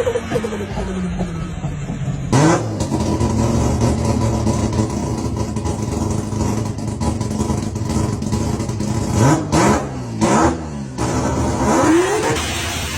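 Car engine revving and accelerating. Its pitch sweeps up sharply about two seconds in, holds a steady note, then climbs three more times in quick succession near the end, each climb cut short as if by a gear change.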